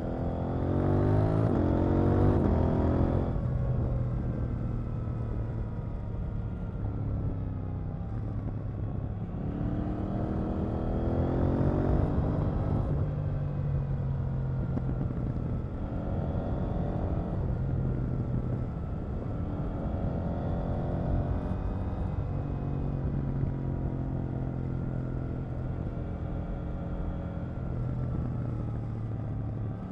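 KTM 890 Duke R parallel-twin engine heard from the rider's seat, pulling hard through the gears: its pitch climbs and drops back at each shift, loudest near the start and again about ten seconds in, with shorter pulls later, between stretches of steadier running. A steady rush of wind lies beneath.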